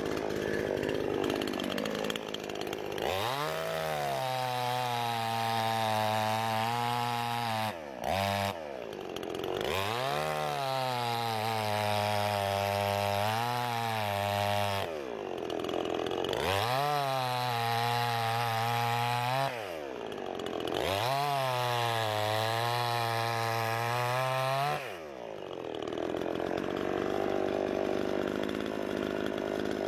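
Two-stroke gas chainsaw with an 18-inch bar revved to full throttle in four long runs, cutting through a thin log, with short dips in engine speed between runs. It drops back to a steady idle near the end.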